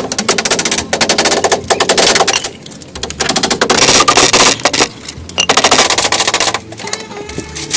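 Three runs of very rapid tapping, each lasting one to two seconds, with short gaps between them.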